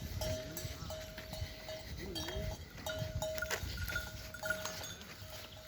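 Livestock bells clanking unevenly on a grazing flock, with a few faint animal calls.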